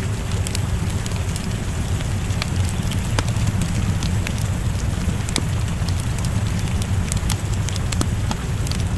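Wood fire crackling in a fireplace, with scattered sharp pops, over a steady low rumble and the hiss of rain.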